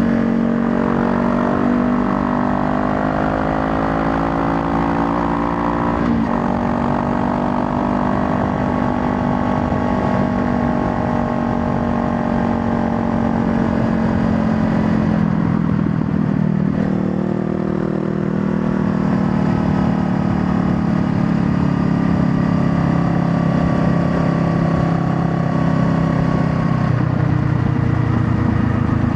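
Honda Rebel 500's parallel-twin engine running under way. Its pitch climbs, then falls back sharply about six seconds in and again around sixteen seconds, as with gear changes, before holding steadier.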